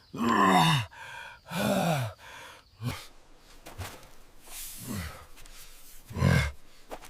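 A person's wordless effort noises: sighs, grunts and groans, each falling in pitch, several times in a row.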